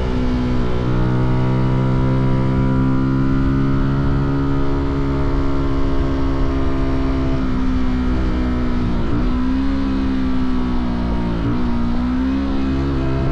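Fantic Caballero 125's single-cylinder four-stroke engine running under way. Its note climbs gently, then holds steady, dips briefly twice in the second half and climbs again near the end, over a low rumble.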